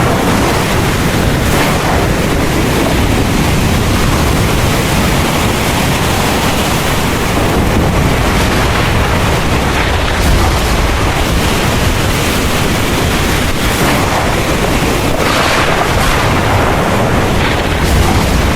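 Heavy rain falling in a steady, dense hiss, with a low rumble underneath.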